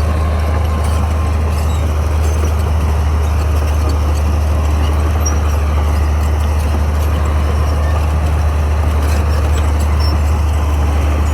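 Crawler bulldozer's diesel engine running steadily under load, a constant low drone with a noisy mechanical clatter above it.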